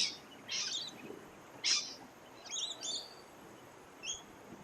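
A few short, high chirps at irregular intervals, typical of small birds calling.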